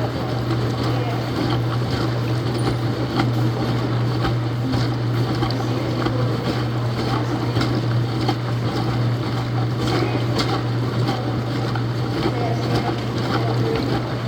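Laundromat washing machine running: a steady low hum with an even rushing noise over it.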